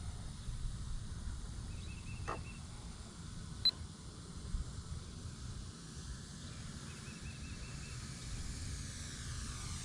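Wind rumbling on the microphone with a few faint chirps and one short high beep; near the end the electric motor of a Blitzworks Cessna 182 RC plane comes in close, its whine growing louder and falling in pitch as it passes.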